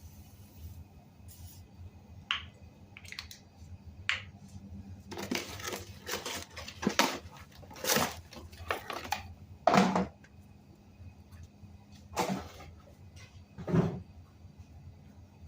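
Irregular knocks, clicks and short scraping rustles of hands handling tools and parts, the loudest about eight, ten and fourteen seconds in, over a steady low hum.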